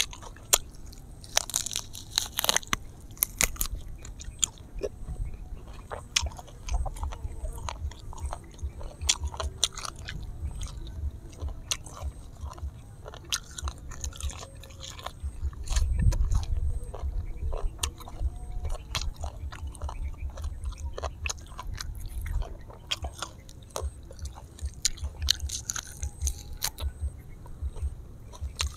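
Close-miked eating: a person biting and chewing whole grilled honey duck and raw green leaves, with many small crunches and clicks.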